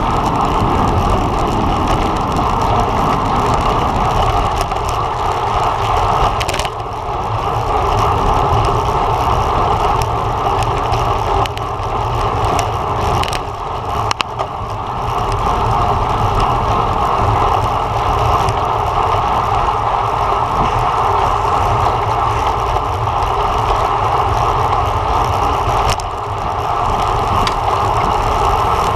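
Steady rush of wind and road noise from a road bike ridden at race speed, with a few brief dips.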